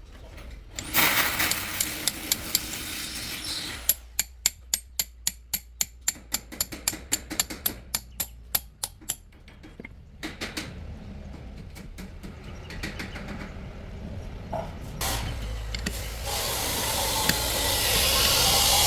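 Workshop tool sounds during repair work: first a stretch of rough noise, then about five seconds of sharp, evenly spaced knocks, roughly four a second. A steady hiss builds near the end.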